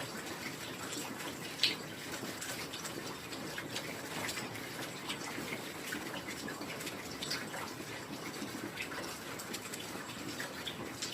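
Steady rain falling, with many separate drops and drips ticking through the hiss of the downpour; one drop about one and a half seconds in is louder than the rest.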